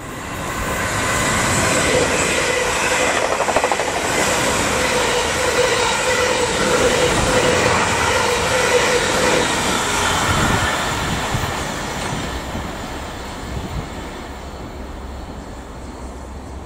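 A multiple-unit passenger train passing close by at speed. Its wheels and running gear build up quickly, run loud with a steady whine for about ten seconds, then fade away.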